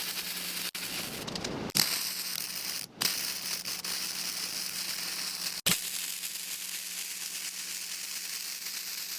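Arc welding a bead on steel plate: a steady crackling sizzle of the arc, cut off briefly a few times in the first six seconds as the arc stops and restarts, then running on unbroken. The stuttering start is a false start in the bead.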